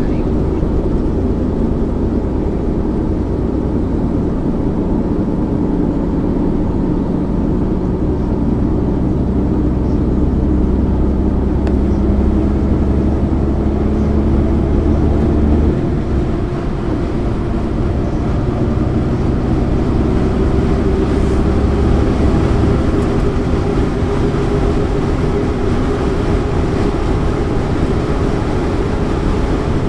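Engine of a 1999 MAN ÜL 353 intercity bus running under way, with a steady low drone. About halfway through the drone drops away briefly, then the engine note climbs slowly.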